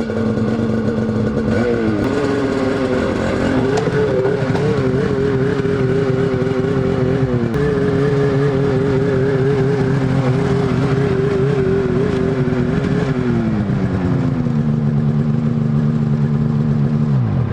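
A motor vehicle engine running under steady load. Its pitch rises early on, breaks briefly about halfway through, and falls lower near the end as it eases off.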